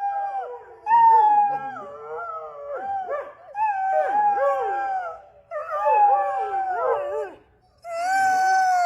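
Borzoi howling: a series of long, drawn-out howls that hold their pitch and drop away at the end, with two voices at once in places.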